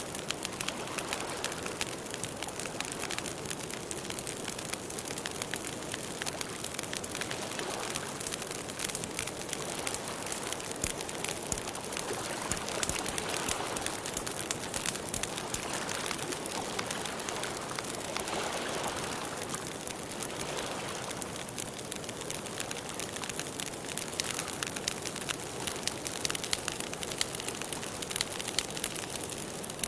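Steady rain falling, a dense patter of many small drops with gentle swells.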